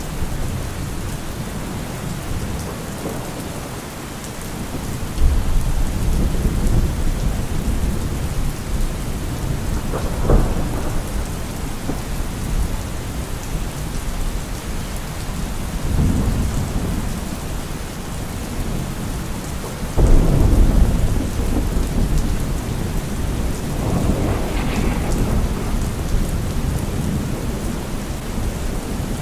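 Heavy rain falling steadily through a thunderstorm, with several rolls of low thunder rumbling in and fading; the loudest clap breaks in suddenly about two-thirds of the way through.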